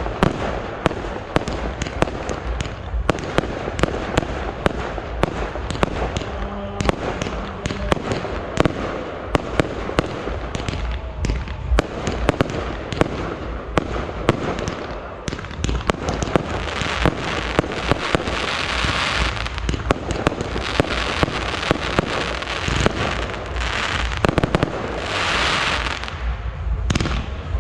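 Fireworks display: a rapid, continuous series of bangs from bursting shells, with stretches of dense crackling about midway and again near the end.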